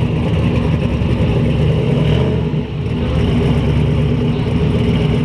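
Car engine running loud and close, steady, with a short dip in level about two and a half seconds in.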